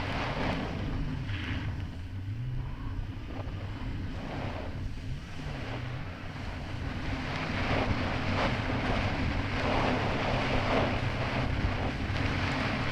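Kawasaki Ultra 300X jet ski's supercharged four-cylinder engine running under way. Its pitch dips and recovers a few times early on, then holds steady, under rushing wind on the microphone and repeated splashes of choppy water against the hull.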